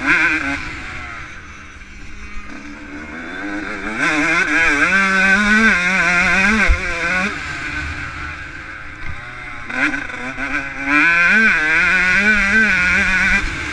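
Yamaha YZ125 two-stroke motocross engine heard from a camera on the bike, revving hard and dropping back again and again as the throttle is worked and gears change. It is quieter for a couple of seconds early on, then surges louder from about four seconds in.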